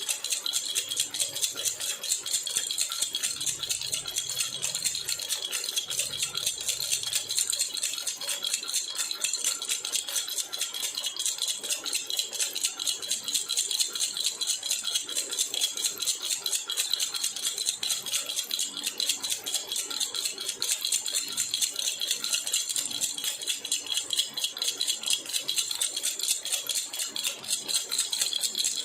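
Jhunjhuna baby rattle shaken steadily without pause, a fast, even, high-pitched rattling.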